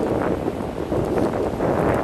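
Wind buffeting the microphone of a camera on a moving bicycle: a rough rushing noise that swells and eases in quick gusts.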